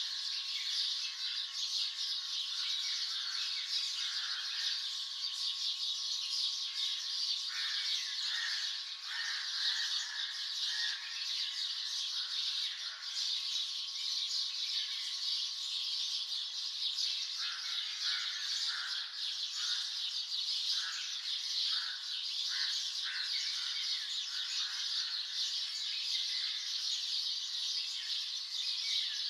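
Morning chorus of many birds chirping and calling at once: a dense, steady high-pitched chatter, with shorter, lower calls breaking through every few seconds.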